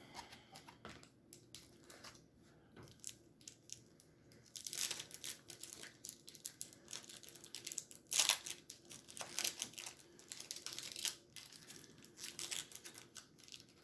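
A trading card pack's wrapper being torn open and crinkled by hand. It starts with a few faint crackles, then turns to dense crinkling and tearing from about five seconds in.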